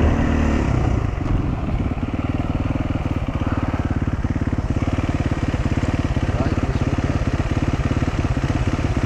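Dual-sport motorcycle engine running steadily under load as it climbs a dirt trail, with an even pulsing beat; the revs drop back slightly about a second in and then hold.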